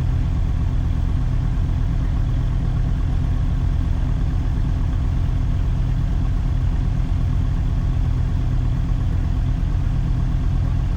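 Motorcycle engine running at a steady, unchanging pitch, heard from the rider's helmet camera.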